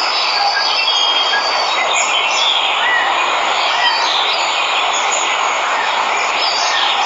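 Steady rush of a waterfall, with jungle birds giving short high chirps and whistles over it.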